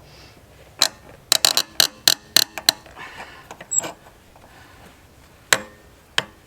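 Hammer blows on metal: a quick run of sharp, clanking strikes in the first few seconds, then a few spaced-out hits.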